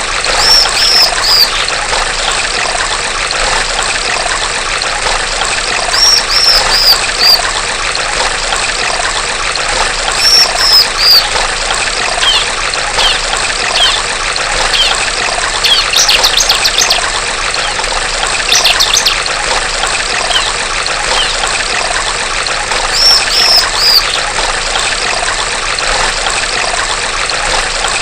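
Steady trickling of a small stream with a female bar-winged prinia (ciblek) calling over it: short runs of three or four high, arched notes every few seconds, and two quick rattling trills about midway.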